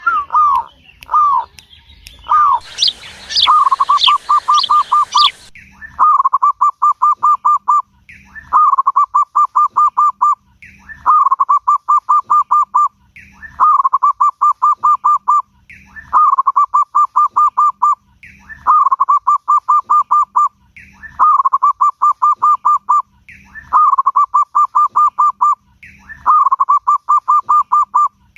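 Zebra dove (perkutut) cooing. A few single coos come first, then repeated phrases about every two and a half seconds, each a first coo followed by a quick run of about eight short, even coos. Near the start, higher falling chirps over a hiss sound briefly along with it.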